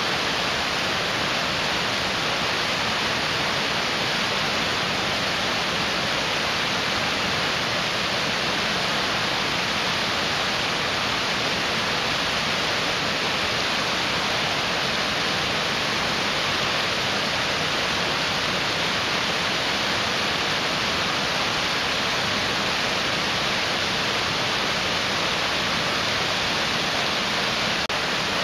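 Mountain stream rushing over rocks: a steady, unbroken hiss of fast-flowing water.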